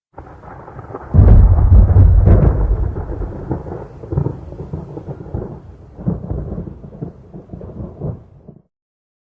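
A thunderclap: a faint rumble, then a loud crack about a second in that rolls away in uneven rumbles, fading and cutting off suddenly near the end.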